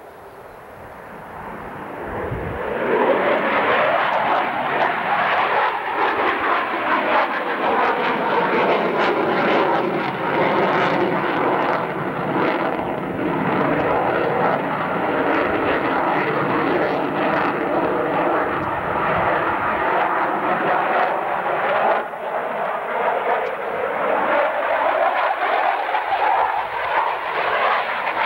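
CF-18A Hornet's twin F404 jet engines roaring as the fighter flies past, building up over the first three seconds and then staying loud, with a sweeping, shifting pitch as it passes.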